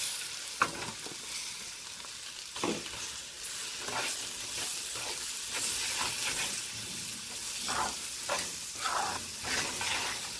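Eggs, onions and spices sizzling in hot oil in a metal pan while a metal spatula stirs and scrambles them, scraping and knocking against the pan in repeated strokes, with one sharp clink about half a second in.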